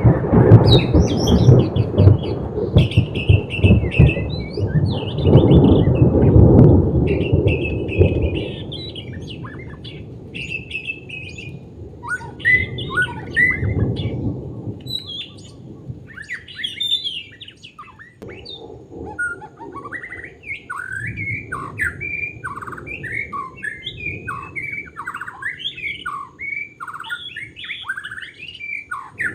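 White-rumped shama singing varied whistled phrases, then, from about two-thirds of the way in, a steady run of repeated falling notes at about two a second. A loud low rumble covers the first eight seconds or so.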